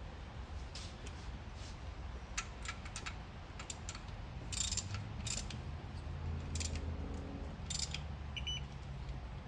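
Ratchet wrench clicking in uneven strokes as an intake manifold bolt on a 3.8L V6 is tightened to torque. A brief high beep near the end, typical of a digital torque adapter signalling that the set torque has been reached.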